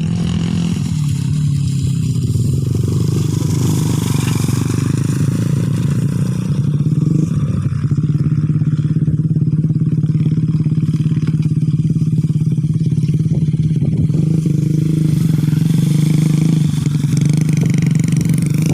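Motorcycle engine running steadily, a low even drone that holds its pitch and grows a little louder about six seconds in.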